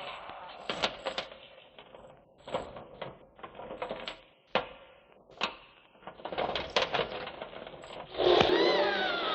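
Sharp clicks and knocks at irregular intervals, a few to a second. About eight seconds in, a louder sound with gliding, wavering tones begins.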